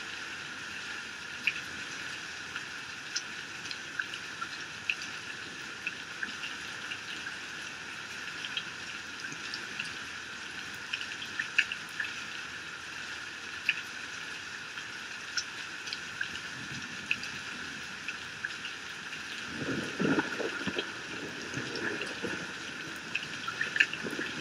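Heavy rain pouring steadily off a roof edge, a constant hiss with scattered sharp drips. A low rumble of thunder swells for a few seconds about twenty seconds in.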